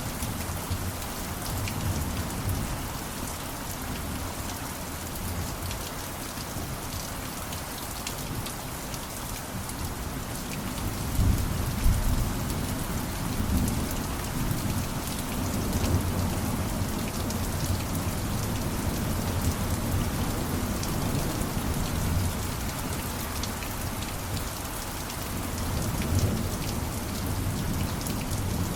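Steady rain falling, with a low rumble of thunder swelling about a third of the way in.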